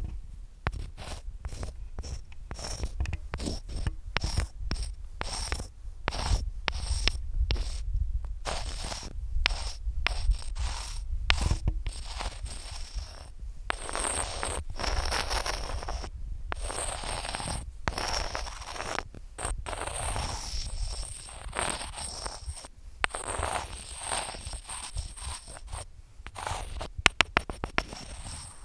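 Long fingernails scratching and tapping close to the microphone: irregular scrapes broken by sharp taps, with a fast flurry of taps near the end. A low rumble runs underneath.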